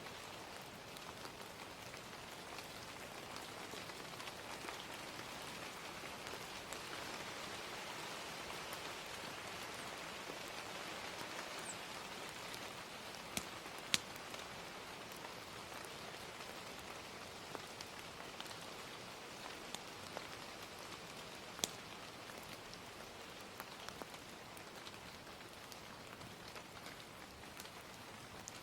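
Gentle rain hissing steadily, with a wood fire's crackle adding scattered sharp pops, the loudest a pair about halfway through and one about three quarters of the way in.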